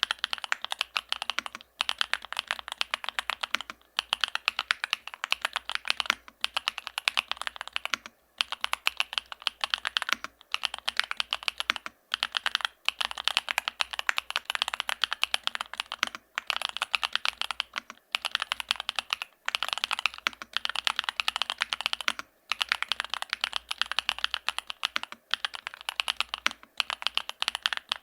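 Continuous fast typing on a Yunzii AL65 mechanical keyboard with Gateron Zero linear switches and a polycarbonate plate: a dense run of key clacks broken by brief pauses every couple of seconds.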